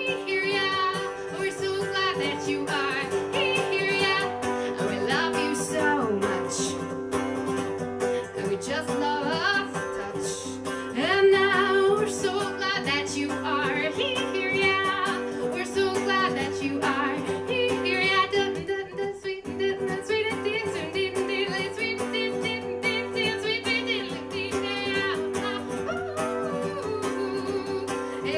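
Live acoustic song: a woman singing long, wavering held notes over acoustic guitar chords.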